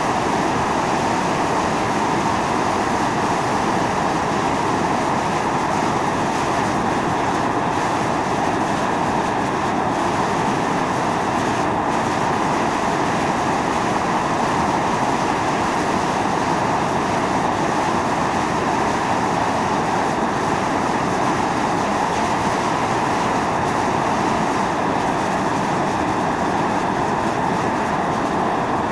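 Volcanic fumarole venting steam and gas, a steady unbroken rushing roar.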